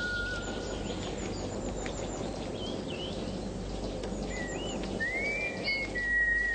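Small birds chirping over a steady outdoor background hum, with a whistled tune starting about five seconds in: a rising note, then a held one.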